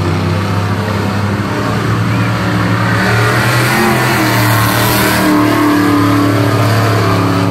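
Mud-racing cars' engines running hard at high revs, loud and continuous, the engine notes rising and falling around the middle.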